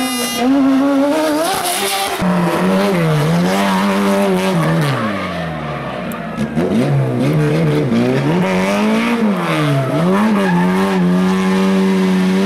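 Rally car engine running hard on a hill climb, its revs repeatedly climbing and dropping, with a sudden jump about two seconds in and a long fall in revs around the middle.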